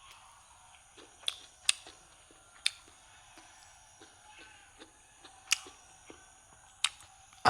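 Eating sounds: a handful of sharp, widely spaced mouth clicks and smacks with soft taps between them.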